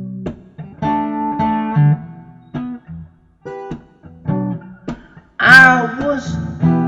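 Acoustic guitar playing picked and strummed chords, with a short, loud, wavering call cutting in near the end.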